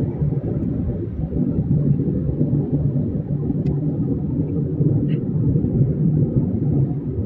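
Passenger express train moving along the track, a steady low rumble, with a faint tick and a short higher squeal midway.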